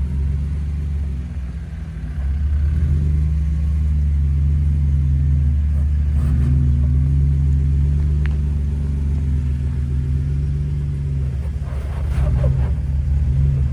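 Jeep engine running steadily at low revs, a low rumble that grows louder about two and a half seconds in and eases back near the end.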